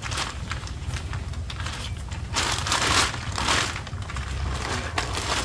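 Fabric stuff bag rustling and crinkling as tent poles are pulled out of it, loudest in the middle, with a few light clicks.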